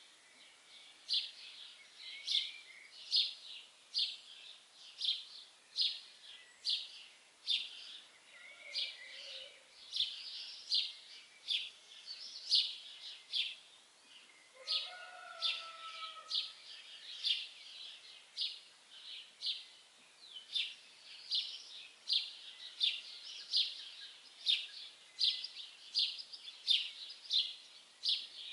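Birdsong: a bird repeating a short, high chirp over and over, about two a second, with a few lower calls from another bird around 8 and 15 seconds in.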